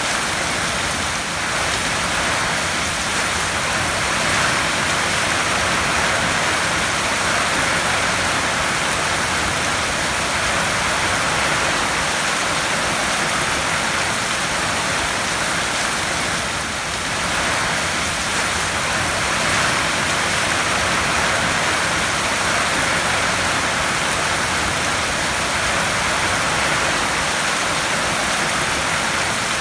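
Heavy rain drumming steadily on a tin roof, a dense even hiss of drops on metal with slight swells in strength.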